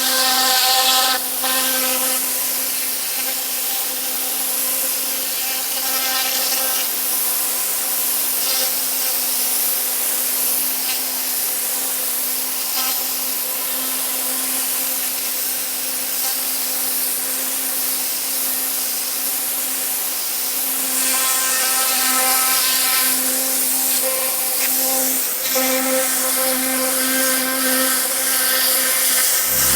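Pressure washer running steadily, a motor-and-pump drone under the hiss of the water spray, as cleaning chemical is sprayed on.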